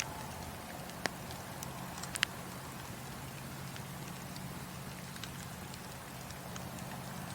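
Wood fire burning in a fireplace: a steady hiss with sharp crackles and pops, the loudest about one second in and a quick double pop about two seconds in, then fainter scattered crackles.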